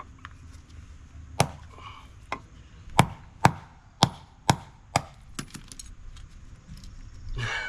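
Repeated hard strikes of a tool on a small electric appliance motor being broken apart for its copper windings: about eight sharp knocks, coming roughly every half second in the middle stretch, followed by a short rattle near the end.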